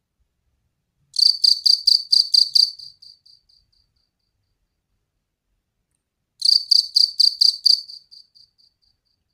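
Jliteng field cricket chirping loudly in two bouts about five seconds apart. Each bout is a run of about eight high pulses at roughly four a second that trails off into a few fainter ones.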